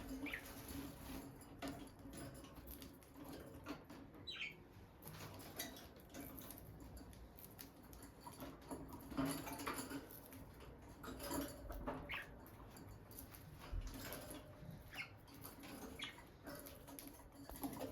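Peach-faced lovebirds moving about, with frequent soft scratching, pattering and clicking and a few brief high chirps.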